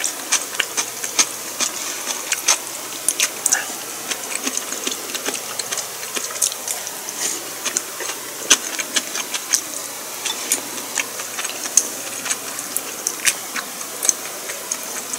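A person chewing food close to the microphone: irregular wet mouth clicks and smacks, several a second.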